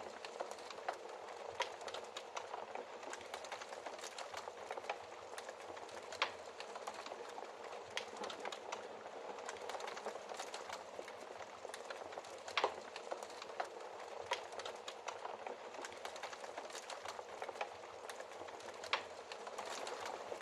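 Wood fire crackling in a fireplace: a steady soft hiss of burning with frequent small snaps and pops, and a few louder pops spread through.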